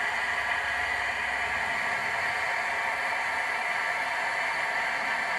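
Camp stove burner running with a steady hiss.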